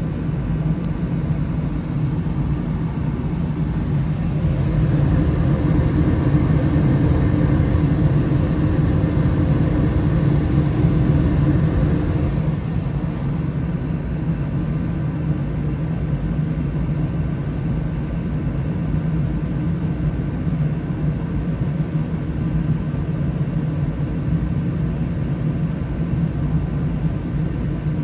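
Bryant gas furnace running: a steady hum and rumble from its motors and burners, with a louder rushing stretch from about five seconds in to about twelve.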